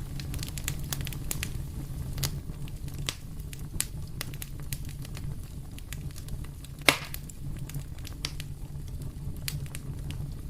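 Wood fire burning in a fireplace: a steady low rumble of flame with frequent small crackles and one loud pop about seven seconds in.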